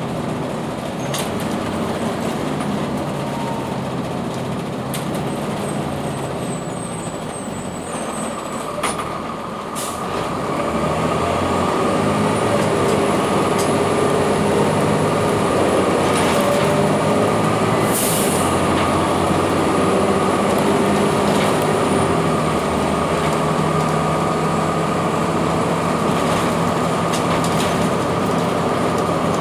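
2002 Blue Bird CS transit bus's Cummins ISC diesel engine running, getting louder about ten seconds in as it pulls harder, with a short hiss of air about two-thirds of the way through.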